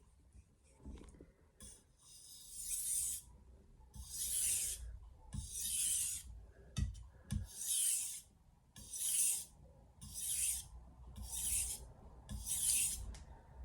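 A Santoku blade being stroked across a wet soaking waterstone: about eight steady, evenly paced sharpening strokes, each a rasping hiss, starting about two seconds in. The knife is being worked to raise a burr along the edge.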